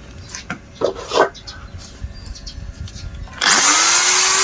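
Rubbing and handling sounds with a few light knocks, then about three and a half seconds in a handheld multi-tool's motor starts. Its whine rises quickly and settles into a steady high-pitched run, for a quick polish of a plastic-welded repair.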